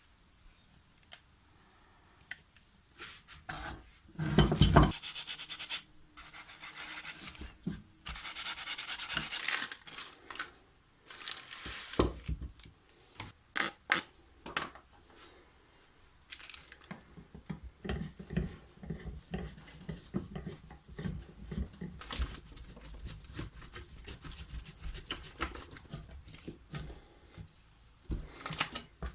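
Hand work on an old metal clamp: irregular rubbing and scraping strokes with sharp clicks and clinks of metal parts.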